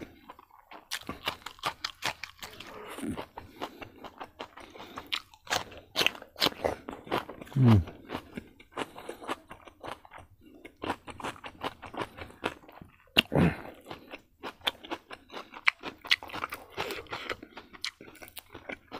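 Close-up chewing and crunching of a mouthful of rice, beef and kidney-bean curry with raw cucumber and greens: wet mouth clicks and smacks, with a crisp crunch as the cucumber is bitten. Two short low vocal sounds with falling pitch break in, at about eight and thirteen seconds.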